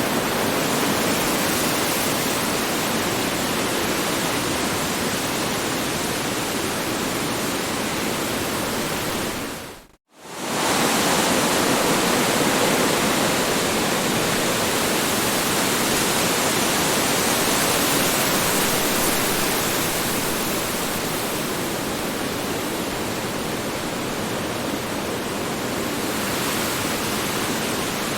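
Strong wind blowing as a steady, dense rushing noise. About ten seconds in it fades out to near silence for a moment and swells straight back.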